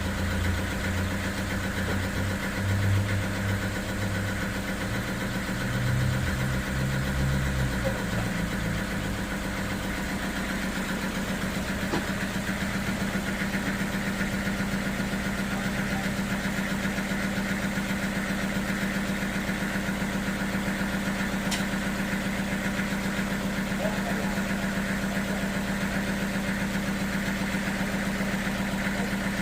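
Sawmill machinery running steadily with a constant engine-like drone and hum. Irregular low rumbling comes through for the first several seconds, then it settles into an even drone.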